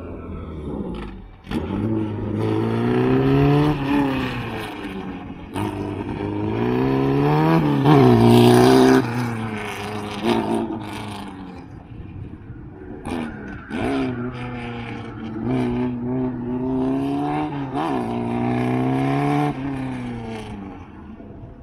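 A car's engine being driven hard around an autocross cone course, revving up and easing off again and again as the driver accelerates, lifts and shifts. It is loudest about eight seconds in.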